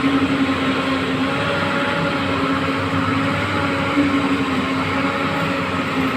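Volvo backhoe loader's diesel engine running steadily, a constant hum with no change in pace.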